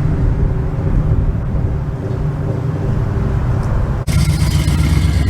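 Car engine running with a steady deep, low rumble. About four seconds in the sound breaks off sharply and a similar engine rumble with more hiss carries on.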